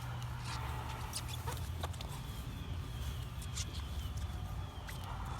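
Quiet outdoor background with no voices: a steady low rumble, a scattering of short light knocks, and faint high chirping.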